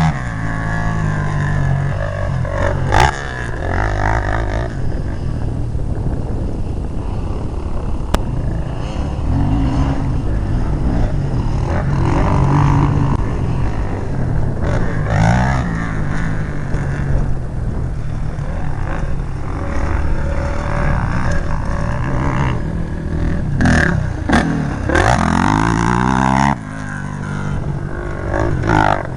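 Motocross motorcycle engine running hard, its pitch repeatedly rising and falling as the throttle is opened and shut, with a few sharp knocks along the way.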